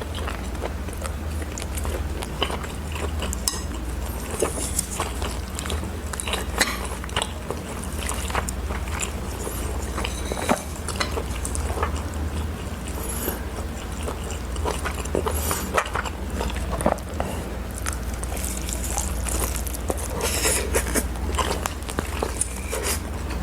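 Close-miked eating: chewing and slurping, with many short clicks of utensils against a bowl, over a steady low hum.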